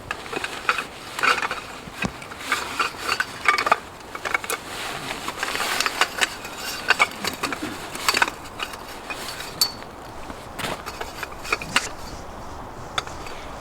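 Irregular crunching, clicking and knocking, denser in the first half: footsteps on frozen snow mixed with tent gear being handled.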